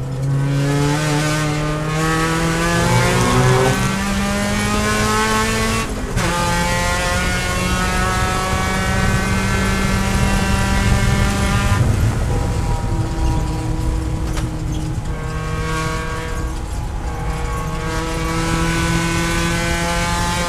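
Mazda Miata race car's four-cylinder engine at full throttle, heard from inside the cockpit: the revs climb steadily, fall sharply about six seconds in and again about twelve seconds in, then climb again.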